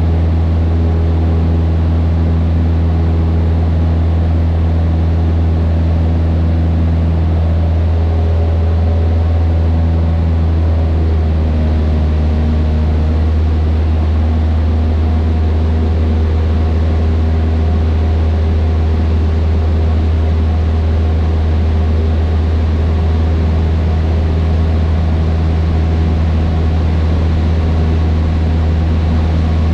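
Cessna 152's four-cylinder Lycoming O-235 piston engine and propeller running steadily: a loud, even low drone whose overtones waver slightly partway through.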